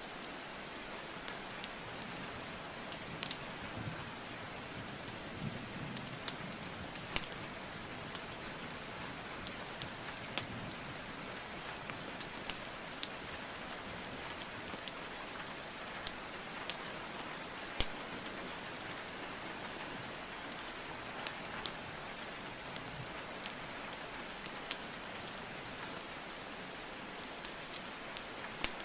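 Steady rain hiss with a wood fire crackling over it: scattered sharp pops and snaps, the loudest about eighteen seconds in.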